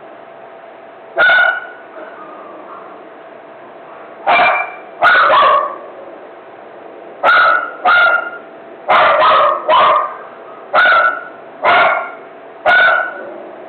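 A dog barking repeatedly: about a dozen loud barks at irregular intervals, several coming in quick pairs.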